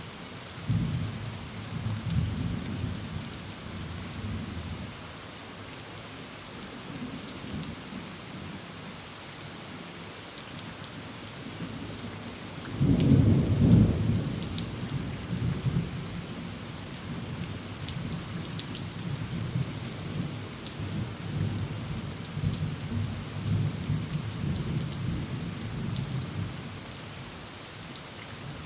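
Heavy rain falling on a tin roof with a steady hiss and scattered drop clicks, while thunder rumbles low throughout. The loudest thunder rumble comes about halfway through.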